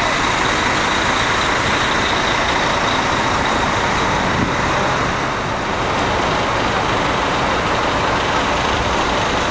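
Steady road and engine noise of a moving Scania K360i coach, with one brief click about four and a half seconds in.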